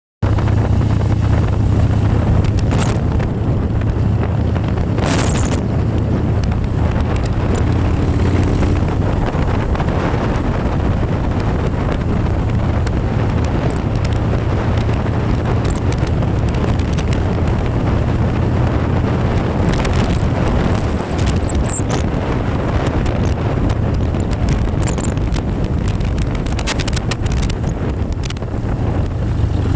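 Motorcycle riding at a steady speed: a constant low engine hum under heavy wind noise buffeting the microphone.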